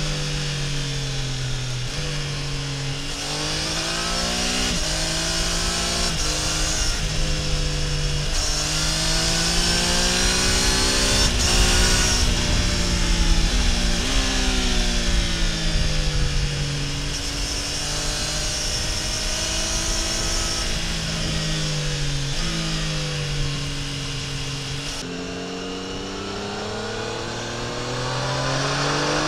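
Triumph Tiger Sport 800 motorcycle's inline-three engine and exhaust under way, its pitch rising and falling again and again as the rider accelerates and rolls off, with several abrupt steps in pitch at gear changes. Wind and road noise run underneath.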